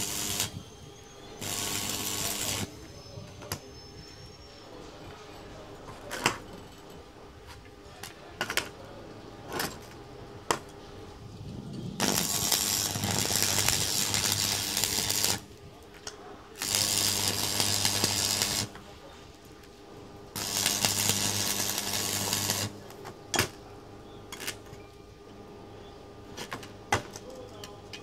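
Electric arc welding on a motorcycle exhaust pipe: four runs of crackling hiss with a steady hum, each lasting one to three and a half seconds. Sharp clicks and taps fall between the runs.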